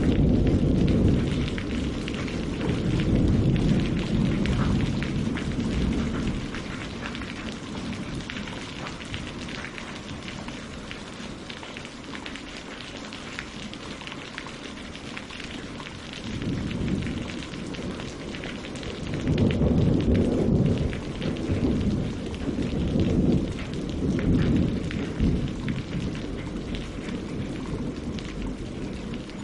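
Steady rain falling on leaves and lake water, with low rolls of thunder. The thunder fades over the first few seconds and swells again several times in the second half.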